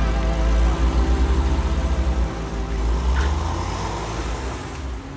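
Air-cooled flat-six of a Porsche 911 (993) pulling away, its engine note pulsing as it moves off and then fading as the car drives into the distance.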